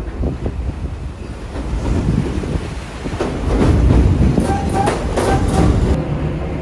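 Train running on the rails with a steady loud rumble, growing louder about three seconds in. A few brief high-pitched squeals and hisses come between about four and six seconds.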